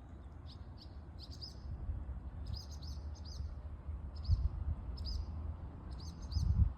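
A small bird repeatedly chirping, short arched notes in twos and threes, over a steady low rumble that swells twice.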